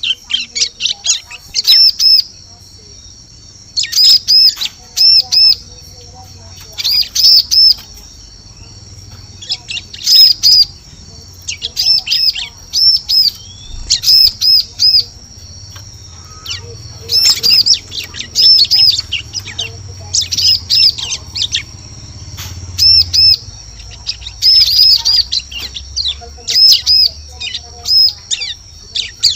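Bar-winged prinia (ciblek) calling: loud, high, sharp chirps in quick clusters of two to four notes, repeated every second or two, played as a bird-trapping lure call. A steady high tone runs underneath.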